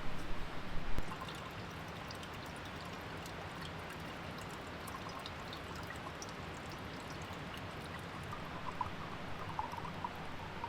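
A river flowing, a steady rushing of water, with a few knocks in the first second.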